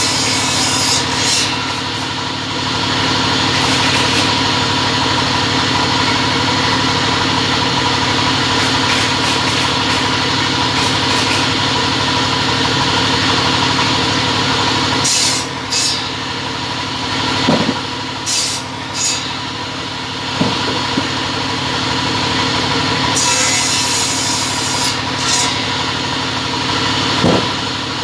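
Double-head cutting machine running with a steady motor hum, and a few short knocks and clatters in the second half.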